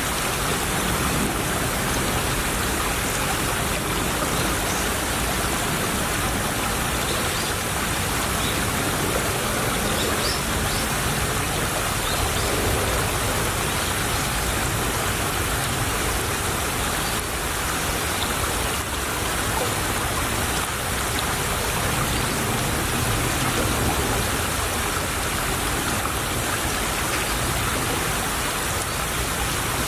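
Small stream trickling and babbling steadily, a continuous even rush of running water.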